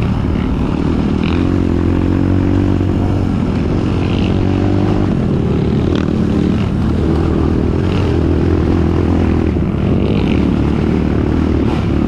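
Kawasaki KLX trail bike's single-cylinder engine running under way, its note rising slightly and falling back again.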